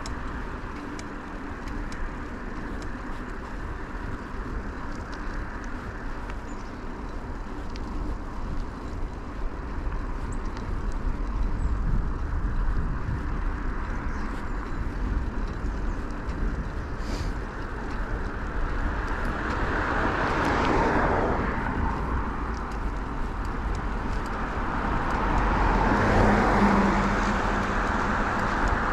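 Riding sound from a chest-mounted camera on a bicycle: steady low wind rumble and tyre noise, with motor traffic swelling past twice, about two-thirds of the way in and again near the end.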